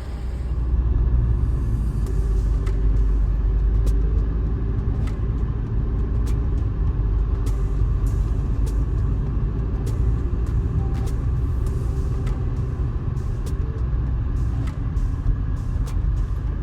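A car on the road: a steady low rumble of engine and road noise, with light clicks scattered through it.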